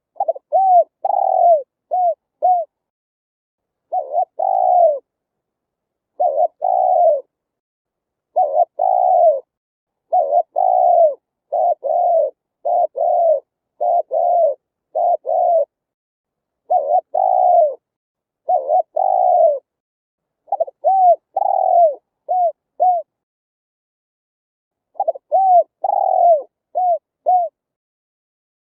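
Spotted dove cooing: a repeated song of short, low coos that each fall in pitch, delivered in phrases of several notes separated by pauses of about one to two seconds. The background between the phrases is dead silent, as in a clean recording made for a speaker lure.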